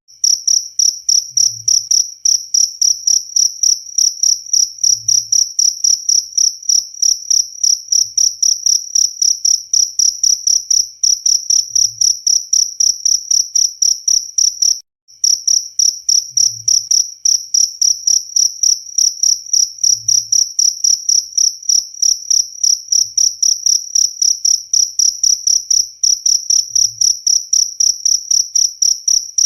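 Cricket chirping loudly and steadily in a fast, even rhythm of high-pitched chirps, about four a second, cutting out for a moment about halfway through.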